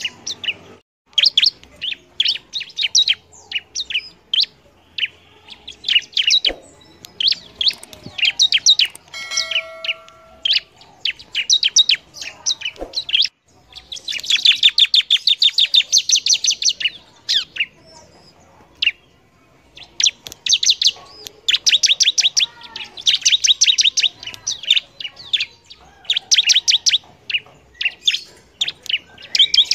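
Bar-winged prinia (ciblek) singing vigorously: bursts of rapid, sharp, high-pitched chirps, with a long, fast trill about halfway through.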